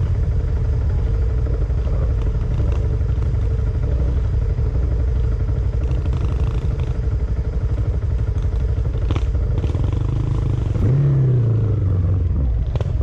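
A vehicle engine running steadily on the move, a low rumble. Its pitch falls once, about eleven seconds in.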